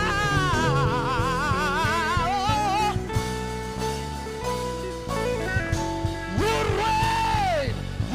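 Live gospel worship music: a singer holds a long note with heavy vibrato, then the band's guitar and keyboard fill for a few seconds before the voice comes back with another held, falling phrase.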